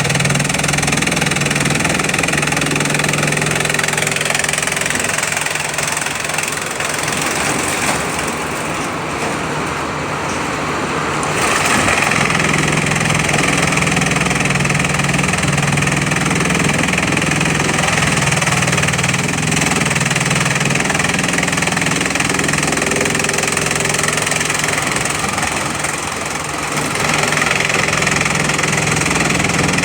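Bamboo chipping machinery and its conveyor running steadily with a dense mechanical din. The noise softens for a few seconds about eight seconds in and again briefly near the end.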